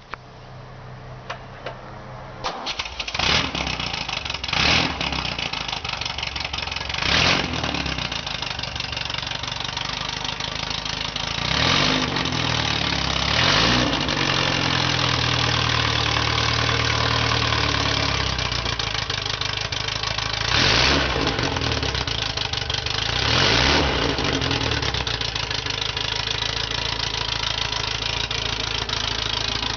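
A 1776cc air-cooled Volkswagen flat-four starting for the first time. The starter cranks for about two seconds before the engine catches. It is then blipped and revved up and down several times, settling back to a steady idle between revs.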